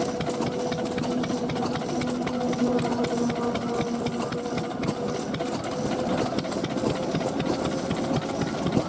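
Vintage stationary engines running, a fast, even mechanical clatter with a steady whine held through it.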